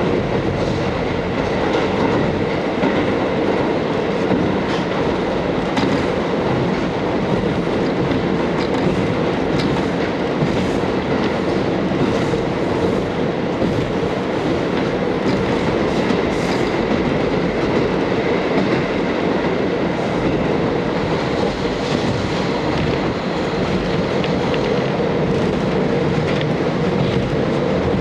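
Cabin noise of a KiHa 40 diesel railcar under way: a steady rumble of the diesel engine and wheels on the rails, with a few faint clicks from the track.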